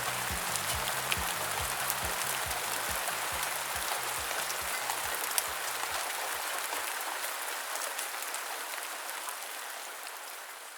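Steady rain falling, a dense patter of drops, over the muffled low beat of a song's ending. The beat fades out about two-thirds of the way through, leaving only the rain, which itself starts to fade near the end.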